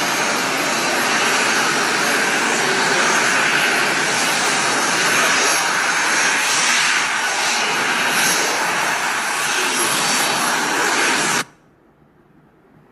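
Jet aircraft engines running, a steady loud rush with a faint high whine over it, which cuts off suddenly about eleven seconds in.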